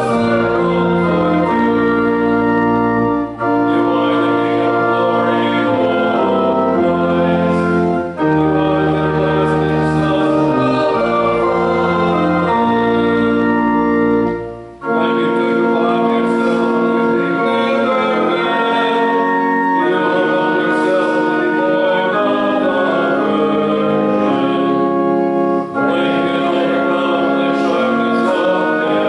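Church organ playing a hymn in held chords, with short breaks between phrases. A low pedal bass line drops out about halfway through.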